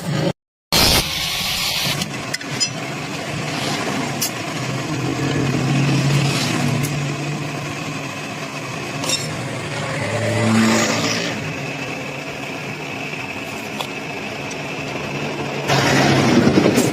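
A motor or engine running steadily with a low hum and a faint whine. Its pitch briefly rises and falls again about ten seconds in. There are a few light clicks, and the sound cuts out completely for a moment right at the start.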